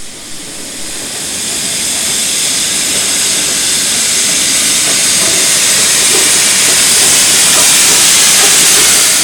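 Steam locomotive, a Nilgiri Mountain Railway 0-8-2 rack tank, letting off steam in a loud, steady hiss that grows over the first few seconds and cuts off suddenly at the end.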